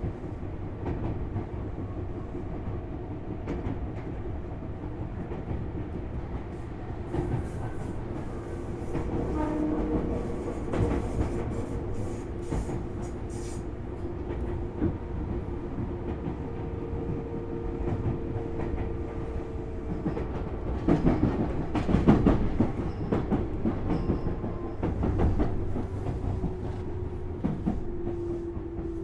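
Tobu Railway 6050 series electric train running, heard from inside its motor car. There is a steady rumble and wheel clatter over the rails, with a motor and gear hum that drifts slowly lower in pitch as the train slows for its next station. A cluster of louder knocks comes a little past two-thirds of the way through.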